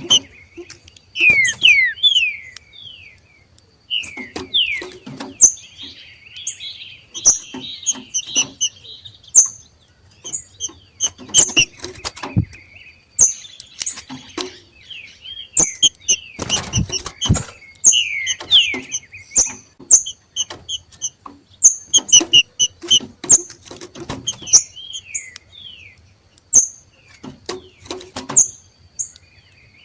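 Two green-winged saltators (trinca-ferro) giving their excited 'macheado' calling: rapid runs of sharp high chip notes and short falling whistles, mixed with many sharp clicks.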